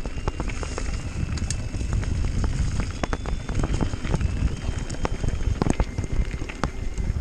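Mountain bike descending a dirt trail: tyres crunching over dirt and rocks, with many sharp clicks and knocks from the chain and frame rattling over bumps, under a steady low rumble of wind on the microphone.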